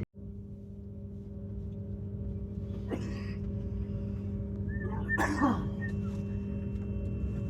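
Steady tonal hum of a stationary train carriage's onboard equipment, made of several held tones over a low rumble. Two short sharp noises break in about three and five seconds in, the second the loudest, like a person coughing or sneezing.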